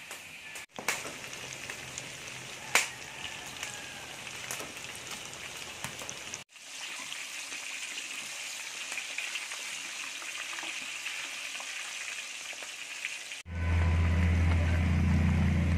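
Garlic and onions sizzling in hot oil in a metal wok, with two sharp knocks of the metal spatula against the pan about one and three seconds in. Near the end a loud steady low hum takes over.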